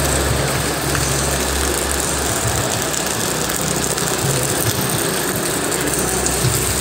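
Steady rain hiss, with a low engine hum underneath that fades out for a few seconds in the middle and returns.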